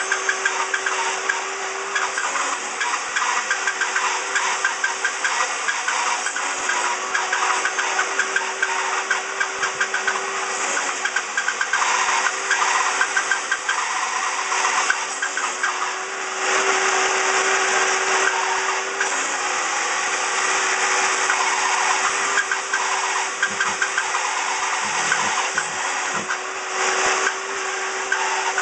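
Table saw running steadily with a constant motor hum while shallow fret slots are cut one after another across a guitar neck board. The cuts come as louder stretches, one about twelve seconds in and a longer one from about the middle on.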